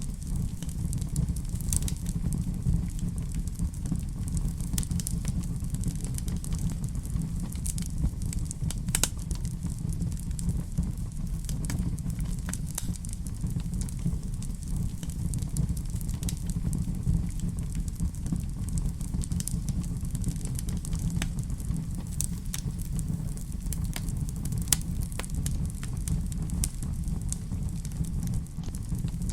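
Fire crackling in a fireplace: a steady low rumble of flame with irregular sharp pops and snaps scattered throughout.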